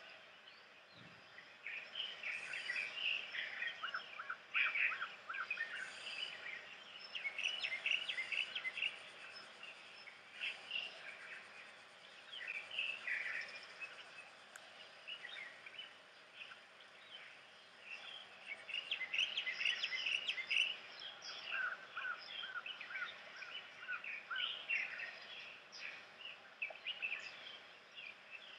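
Several songbirds chirping and singing together in busy overlapping spells with short lulls between, including quick runs of repeated notes.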